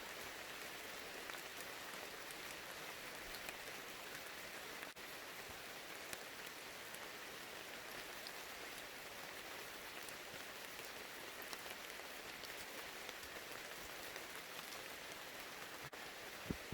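Steady rain falling, a continuous hiss with many individual drops ticking scattered throughout.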